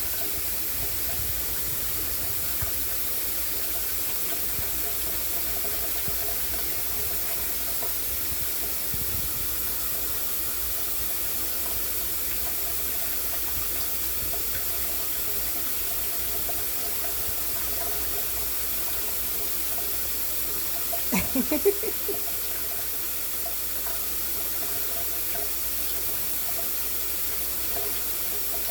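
Shower spray running with a steady hiss. About two-thirds of the way through comes a brief cluster of short pitched vocal sounds, the loudest thing in the stretch.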